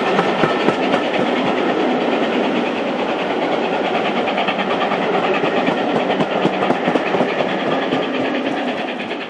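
Passenger coaches of a steam-hauled train running past, their wheels clicking rapidly over the rail joints, fading near the end as the train draws away.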